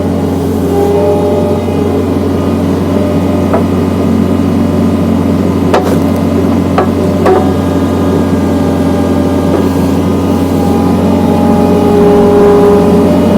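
John Deere skid steer engine running steadily, powering a hydraulic log splitter attachment, with a few sharp knocks around the middle.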